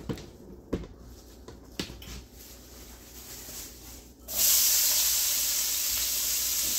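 Diced onions dropped into hot oil in a stainless steel sauté pan: a sudden, steady sizzle starts about four seconds in. A few light taps come before it.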